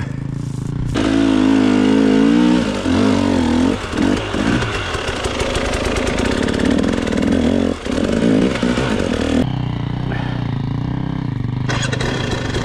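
Enduro dirt bike engine revving up and down in uneven bursts as the throttle is worked. It settles to a lower, steadier run for about two seconds near the end, then picks up again.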